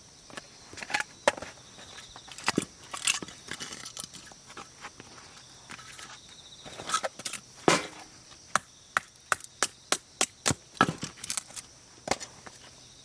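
Firewood being split or chopped: a run of sharp wooden knocks and cracks, irregular at first, then coming about three to four a second after the middle.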